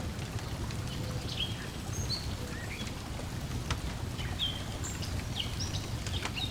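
Layered lakeside ambience: a wood fire crackling with scattered sharp pops, and small birds chirping short notes every second or so, over a steady low wash of water and breeze.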